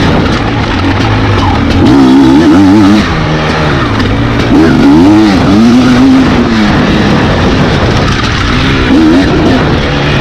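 Off-road dirt bike engine revving hard, its pitch rising and falling again and again as the throttle is opened and shut.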